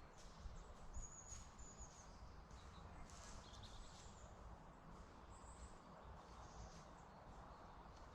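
Faint woodland ambience with small birds chirping and whistling in short high notes now and then, over a low steady rumble.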